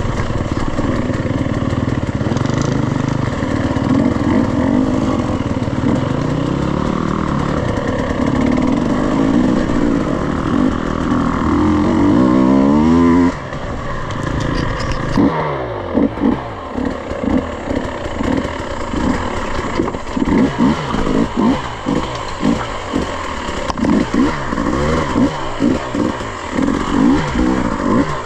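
Off-road dirt bike engine under way, revs held and climbing until about halfway through, then dropping off suddenly. After that comes a long string of short throttle bursts, the revs rising and falling again and again.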